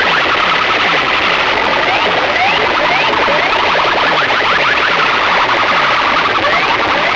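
Loud sound-system loudspeakers playing a dense, distorted electronic effect track: short rising siren-like chirps over a rapid pulse of falling bass sweeps, several a second.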